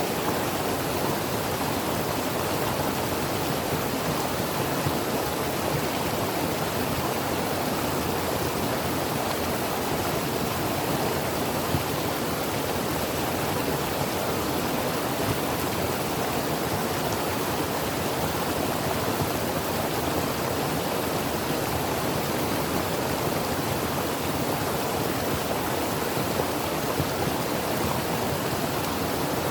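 Creek water flowing and burbling over rocks, a steady rushing noise with no change throughout.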